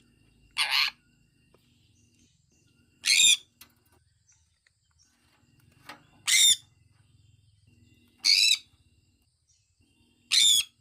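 Sun conure calling: five short, loud calls about two seconds apart.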